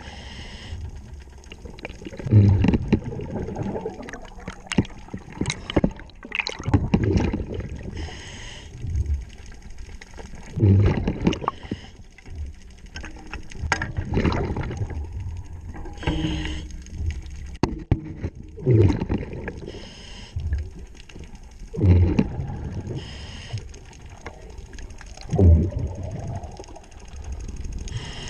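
Scuba diver breathing through a regulator underwater: exhaled bubbles rumble and gurgle in a surge every three to four seconds, with a few hissing inhales between them. A few sharp clicks, as of metal tools, fall in the first third.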